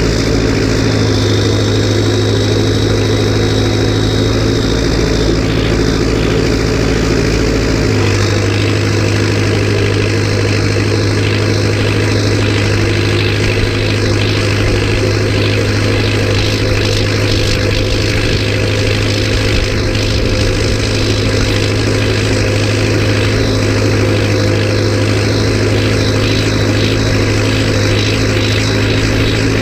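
Straight-piped, turbocharged Massey Ferguson 590T tractor's four-cylinder diesel engine running steadily, its note shifting slightly about eight seconds in.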